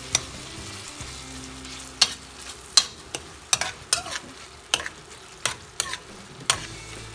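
A utensil stirring a thick cheese, salsa and ground-beef dip in a saucepan on the stove, with sharp clacks and scrapes against the pan every second or so over a faint steady hum.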